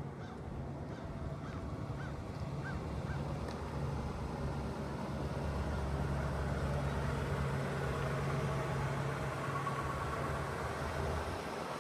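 The 1977 Cadillac Eldorado's V8 running with a steady low drone, along with wind and road hiss that grows louder over the first few seconds and then holds.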